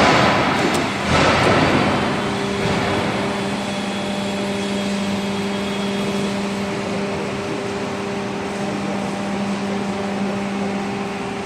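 Hydraulic profile bending machine running, its pump motor humming steadily, with two loud rushing bursts of noise in the first two seconds.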